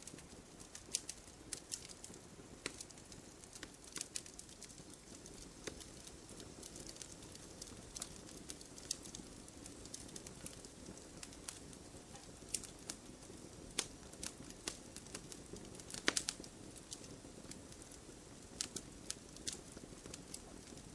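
Wood fire crackling: irregular sharp pops and snaps over a low steady rush of burning, with a cluster of louder pops about sixteen seconds in.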